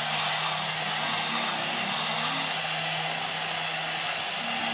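Small electric motor of a homemade model running steadily, a constant whirring hum.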